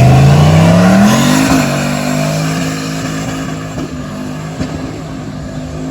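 A car engine revving up as the car accelerates, its pitch rising over the first second and a half, then holding steady while the sound fades away.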